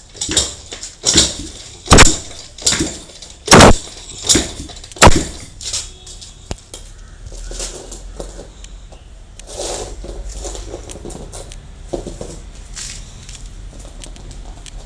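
A run of about seven loud, sharp thumps, roughly three every two seconds, followed by quieter scattered knocks and a faint low rumble.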